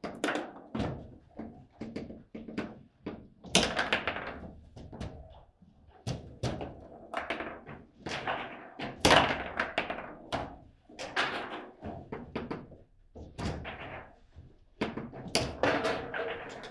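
Table football rally: the ball being struck by the rod-mounted players and bouncing off the table's walls, a rapid, irregular series of knocks and thunks. The two loudest hits come about three and a half seconds and nine seconds in.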